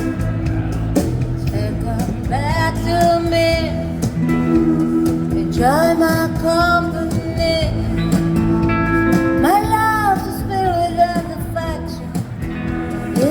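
A rockabilly band playing a song, with guitar over a steady beat and a voice singing three long, swooping phrases.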